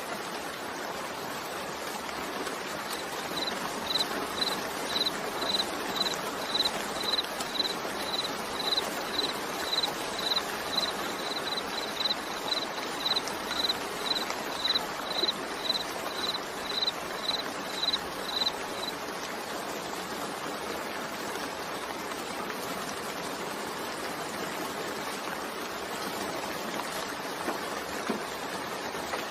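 Steady rain falling, an even continuous hiss. From about three seconds in, a high-pitched electronic beep repeats about twice a second for some fifteen seconds, then stops.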